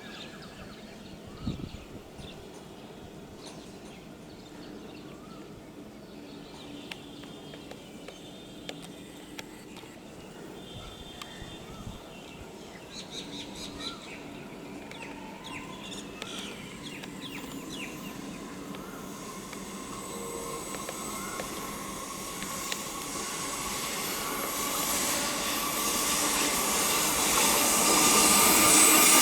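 Birds chirping over a quiet background, then an approaching EMU electric local train growing steadily louder through the second half, with a steady whine and rising rail hiss.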